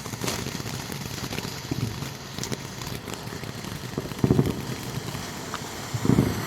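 A lit firework fizzing and crackling steadily, with scattered sharp pops and two short low thumps, one after about four seconds and one near the end.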